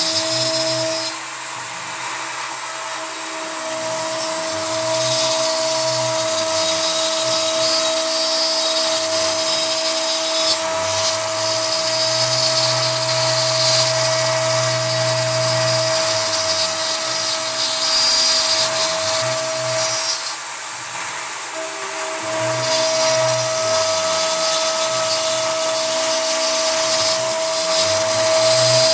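A CNC router at work: the Kress router spindle runs with a steady high whine, and the stepper motors hum and glide up and down in pitch as the axes change moves. The 3 mm end mill is cutting into pine, with the cutting noise coming and going.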